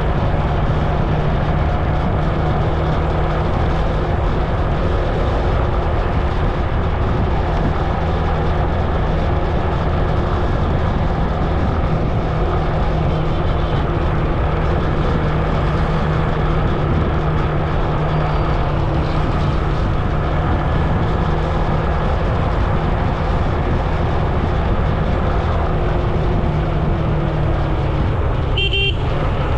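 A vehicle engine drones steadily at constant speed, with road and wind noise, heard from on board while riding. A brief high-pitched sound comes near the end.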